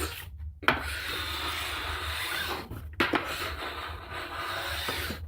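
Fine file in an 88-degree side-edge guide drawn along a ski's steel edge: two long rasping strokes of about two seconds each, each starting with a click. Only a little metal is coming off, as the edge is already fairly sharp.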